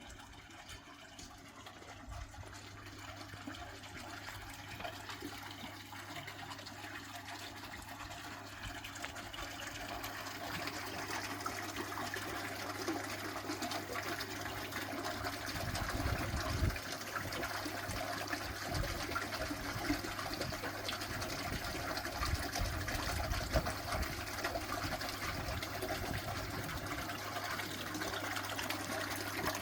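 Running water splashing and gushing, growing gradually louder, over a steady low hum.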